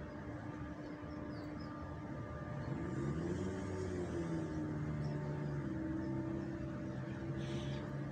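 A motor vehicle's engine running at low speed, its pitch rising about three seconds in as it speeds up and then holding steady.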